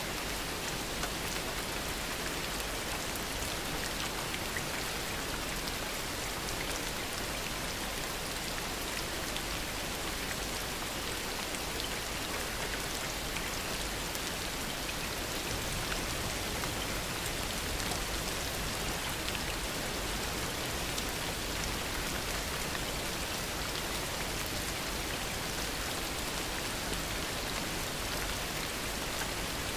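Heavy, steady rain pattering on surfaces, a dense hiss of many drops without a break.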